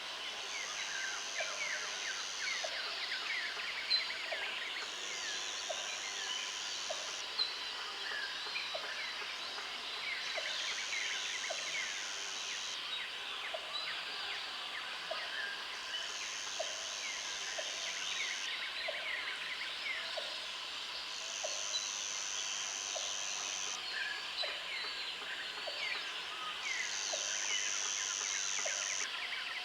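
Country outdoor ambience of many birds chirping, with a high steady buzz that comes in bursts of about two and a half seconds every five to six seconds, and a soft tick repeating about once a second.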